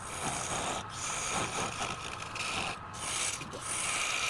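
Wood being rubbed or rasped: a continuous scratchy scraping that breaks off briefly a few times.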